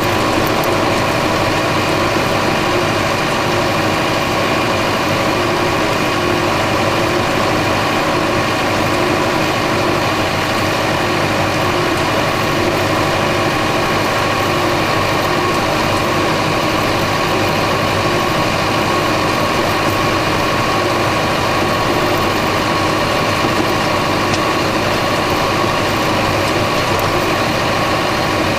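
Massey Ferguson 3075 tractor's diesel engine running steadily at an even pitch.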